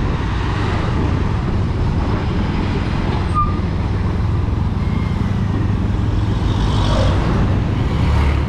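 Bajaj Pulsar 220 motorcycle riding through town traffic: the engine runs steadily under a low, even rumble of wind and road noise. There is one brief high chirp about a third of the way in.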